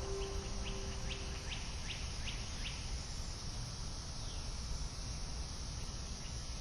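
A bird calling outdoors: a run of short, falling chirps, two to three a second, that stops about three seconds in, followed a little later by one longer downward-sliding call, over a steady background of outdoor noise. Background music fades out early on.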